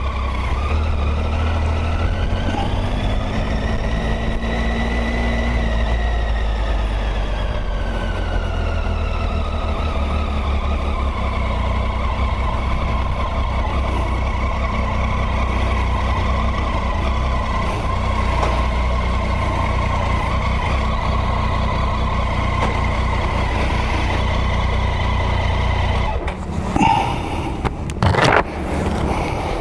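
Motorcycle on the move, heard over a heavy low rumble of wind on the microphone, with the engine's pitch slowly rising and falling as the speed changes. Near the end the steady rumble breaks off and there are a couple of sharp knocks.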